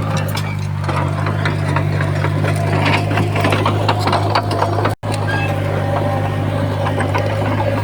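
Heavy diesel earthmoving machine running steadily with a dense metallic clanking and rattling over the engine hum. The sound cuts out very briefly about five seconds in.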